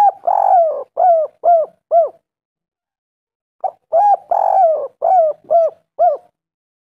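Spotted dove (tekukur) singing its cooing song: two phrases a few seconds apart, each a quick run of short coos around one longer, drawn-out coo. The first phrase is already under way at the start.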